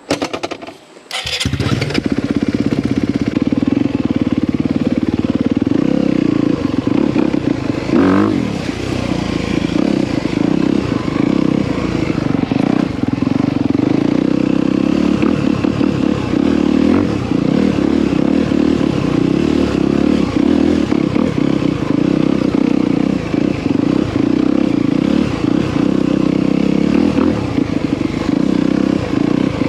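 Dirt bike engine running as the bike rides along a trail, coming in loud about a second and a half in and staying steady, with a short rise in revs about eight seconds in.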